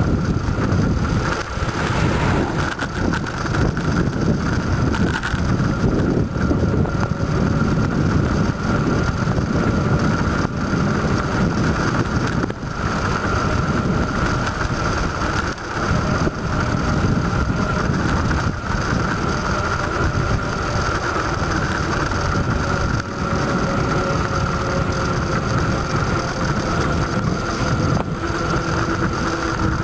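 Wind buffeting the microphone of a moving bicycle rider, a steady loud rushing with a thin steady whine running through it.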